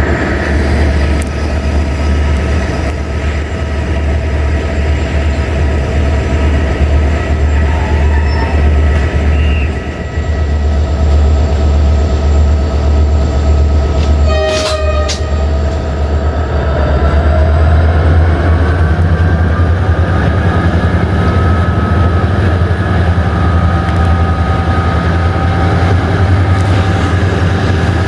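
Indian Railways express passenger train running at speed, heard from onboard: a loud, continuous low rumble of wheels on rail with a few steady high tones over it. One sharp knock comes about halfway through.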